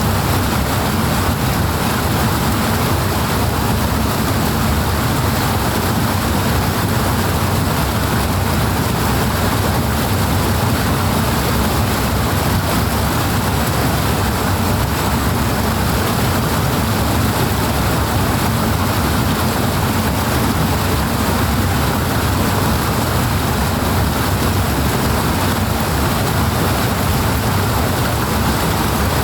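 Powerful water rushing steadily and without a break, heavy with a deep rumble.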